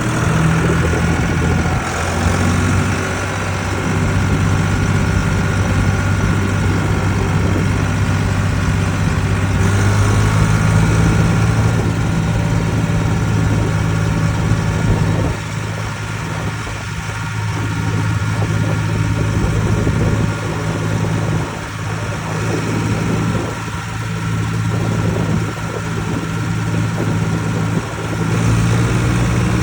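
Ford 3600 tractor's three-cylinder engine running steadily at a low, even speed, its loudness dipping and rising a little at times.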